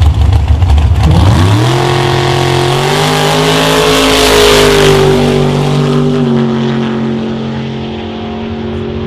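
Drag-racing 1973 Chevrolet C10 pickup with a 588-cubic-inch V8 launching off the line. The engine note climbs steeply about a second in, then holds high and loud with a hiss as the truck passes. It then fades away down the strip, the pitch dropping slightly.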